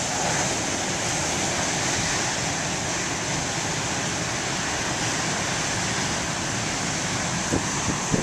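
Steady wind noise buffeting the microphone over the wash of large ocean waves breaking on the shore, with a couple of brief knocks near the end.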